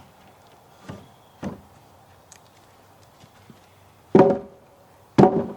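Wooden knocks and thumps as the freshly milled green cedar post and slab are handled: two light knocks, then two loud hollow thumps about a second apart near the end.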